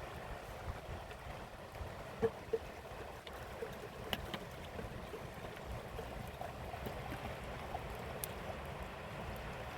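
Mountain river water flowing steadily, with a few brief clicks and small plips over it.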